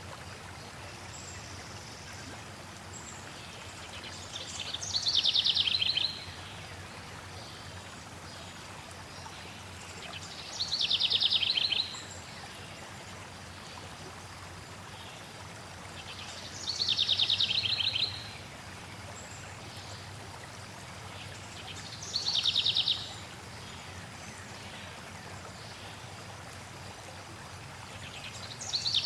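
A songbird repeats the same fast, buzzy trilled phrase about every six seconds, each phrase falling in pitch, with a few faint high chirps between. Under it runs the steady hiss of flowing water.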